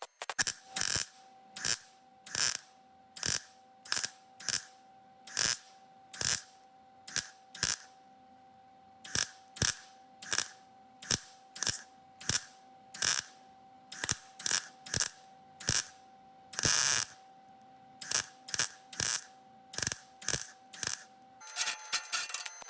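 Welder stitch-welding a sheet-steel patch in short bursts, about one or two a second, each lasting a fraction of a second, with one longer pass about three-quarters of the way through.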